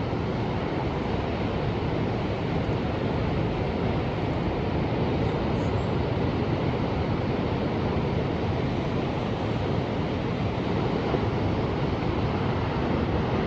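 Ocean surf washing steadily, an even roar of water with no single wave crash standing out.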